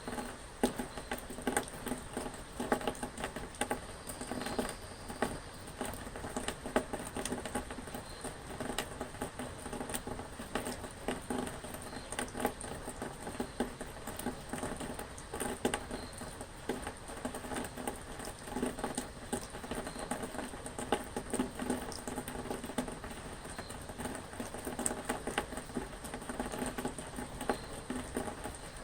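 Rain falling steadily, a dense pattering of many small drops striking a surface that rings slightly with each hit.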